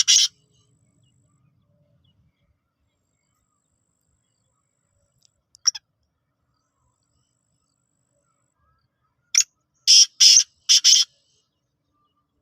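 Pet bird giving short, harsh chirping calls: one at the start, another a little before halfway, then a quick run of four or five near the end.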